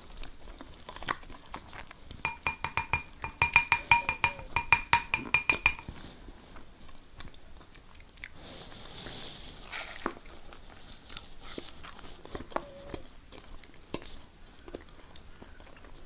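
Eating sounds: a quick run of ringing taps, about five a second, for a few seconds, like a fork or knife tapping a ceramic plate, then quieter chewing and small clinks.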